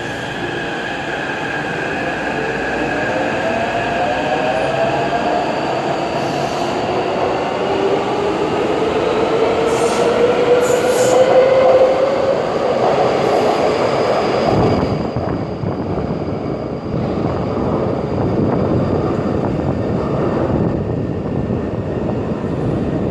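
Taipei Metro C381 train running, its traction-motor whine climbing steadily in pitch as it gathers speed, over wheel and rail noise. About two-thirds of the way through, the whine drops away suddenly and a rougher rumbling noise is left.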